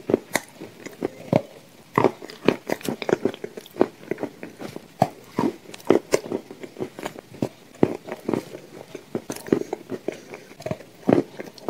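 Close-miked biting and chewing of a shortbread cookie dipped in thick cream: soft crunches and wet mouth sounds in a quick, irregular run of crisp clicks.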